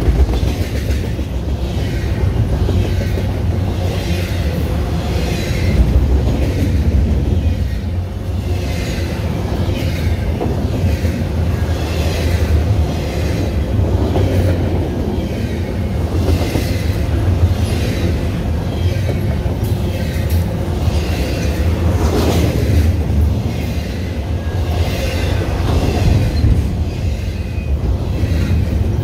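Canadian Pacific double-stack intermodal train of container-laden well cars passing at speed: a steady low rumble of steel wheels on rail with a repeating clatter from the wheel sets, and a sharper clank about three-quarters of the way through.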